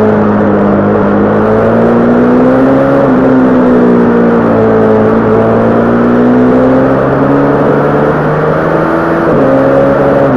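Honda CB500 parallel-twin engine running under way, its pitch rising and falling gently with the throttle, with a brief dip and step in pitch about nine seconds in.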